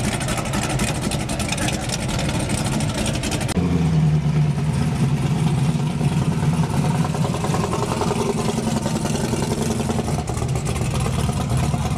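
Street-racing cars' engines running. The sound changes abruptly about three and a half seconds in, from a dense noisy rumble to a steady deep idle.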